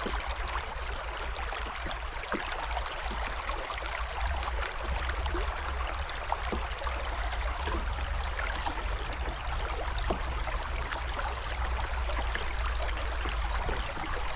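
Nissitissit River water rushing, a steady hiss with a low rumble underneath.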